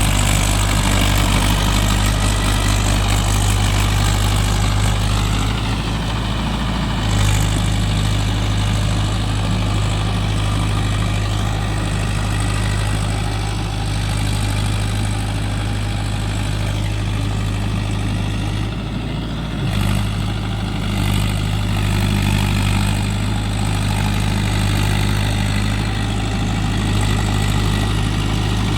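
Mahindra Yuvo Tech+ 585 DI 4WD tractor's diesel engine running steadily with a deep, even hum, shifting briefly a couple of times.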